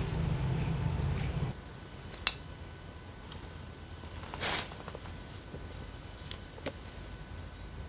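A steady low machine hum that cuts off suddenly about a second and a half in, followed by a sharp click, a brief louder rustle or scrape a few seconds later, and a couple of small clicks.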